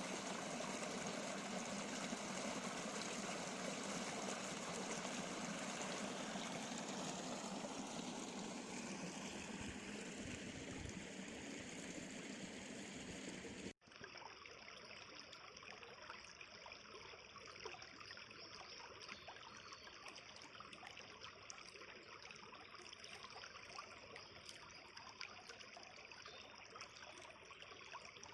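River water flowing and babbling over stones in a steady rush. About halfway through it cuts abruptly to a second, quieter stretch of the river with less hiss.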